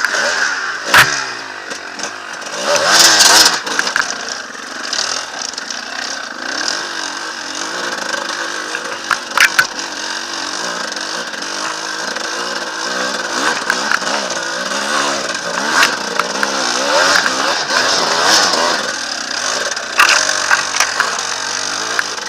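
Enduro motorcycle engine revving up and down over and over, with louder surges around three seconds in and again after about sixteen seconds, and a few sharp knocks.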